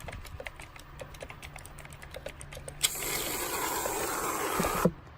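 Rapid, irregular light clicks, like typing. About three seconds in they give way to a loud hiss lasting about two seconds that cuts off suddenly.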